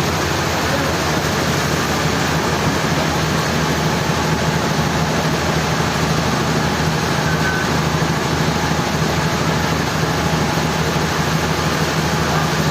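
Sawmill machinery running steadily: a continuous mechanical drone with a low hum underneath.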